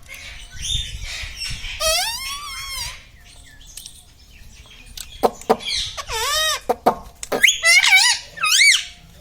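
Indian ringneck parrot calling: a warbling call about two seconds in, then a string of short, arching, high-pitched squawks mixed with sharp clicks in the second half.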